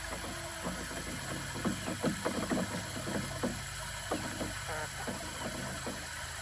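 Chickens pecking and pulling at grass: irregular soft clicks and ticks, over a steady low background hum.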